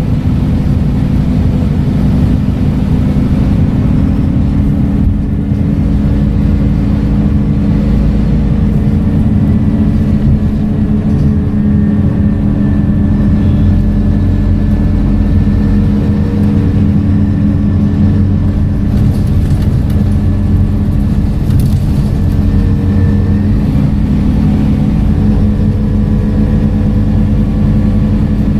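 Scania K230UB bus's five-cylinder diesel engine running steadily under way, a continuous low drone with faint higher whining tones that drift up and down in pitch.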